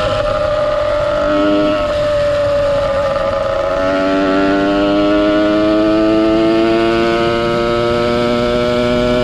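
Ported 100cc two-stroke engine of a motorized bicycle with an expansion-chamber pipe, running under load on the move. Its pitch sags briefly, then climbs steadily for the second half as the bike accelerates.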